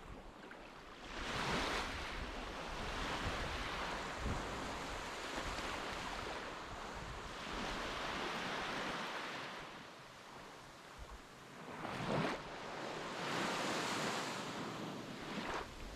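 Sea waves washing in, swelling and ebbing every few seconds, with wind rumbling on the microphone.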